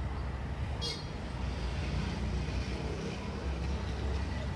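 Urban street traffic with a steady low rumble of passing vehicles, and a brief high-pitched squeak about a second in.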